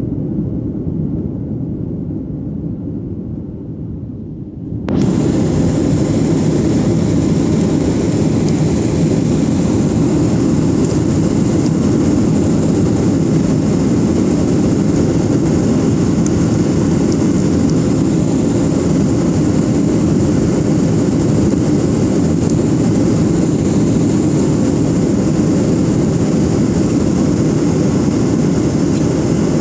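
Airliner cabin noise: a steady rumble of engines and airflow that jumps sharply louder about five seconds in and then holds steady.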